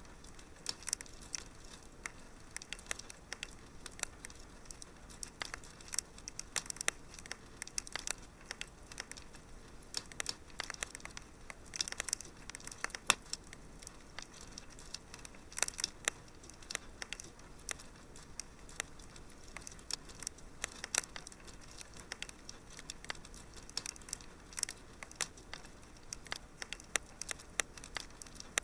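Wood fire crackling in a fireplace: irregular sharp pops and snaps, some louder than others, over a faint steady hiss.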